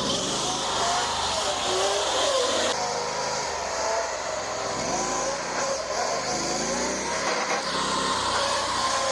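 Predator 670 V-twin engine in a home-built truck revving hard under acceleration, its pitch climbing and dropping several times as it is run up through the gears.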